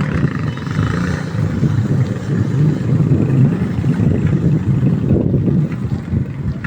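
Bajaj motorcycle engine of a homemade mini jeep running, a loud, choppy engine sound.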